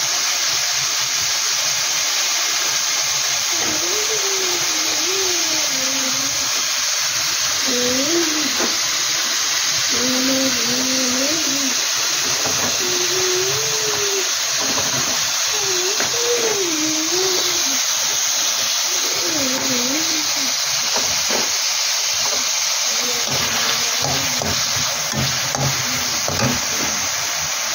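Chicken pieces and potato cubes frying in hot oil in a pan, a steady sizzling hiss, with the spatula scraping and clicking against the pan near the end. A voice is heard faintly behind it at times.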